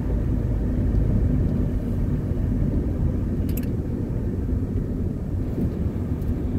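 Steady low rumble of a car being driven, its engine and tyre noise heard from inside the cabin, with a faint click or two about halfway through.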